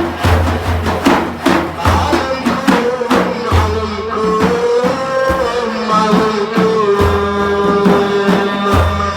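Sufi devotional music: frame drums beating a steady rhythm, strongest in the first two seconds, under a long held melodic note from about three seconds in.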